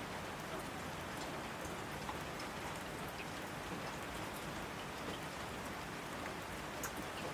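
Logs burning in a fireplace, crackling: a steady hiss of the fire with many small scattered pops and one sharper pop near the end.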